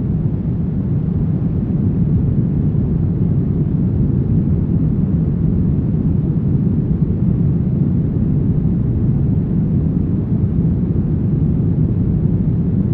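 Brown noise: a steady, deep hiss with most of its weight in the low end, unchanging, with no tones or rhythm.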